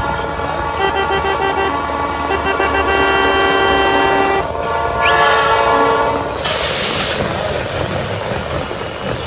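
A loud horn sounding a chord of several steady tones in a long blast of about four seconds, followed by a second, shorter blast. About six and a half seconds in comes a sudden short burst of hiss, and after that a steady rumble of noise.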